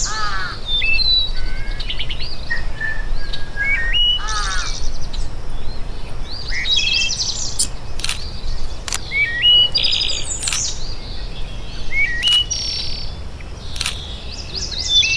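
Several songbirds singing and calling together: short whistled notes, quick chirps and fast trills, overlapping one another. A few sharp clicks sound now and then in the second half.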